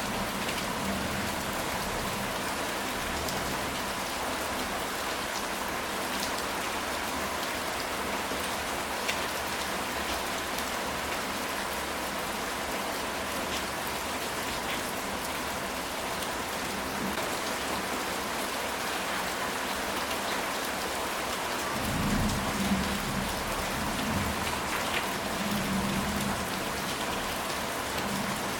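Steady rain falling on a ceramic tile roof, with scattered sharper drop ticks. A low rumble of thunder rolls in about three quarters of the way through and lasts several seconds.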